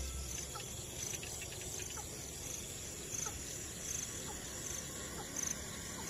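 Crickets and other insects chirping at dusk: a faint, steady high-pitched drone with short chirps repeating every second or so, and a few faint short calls from other animals.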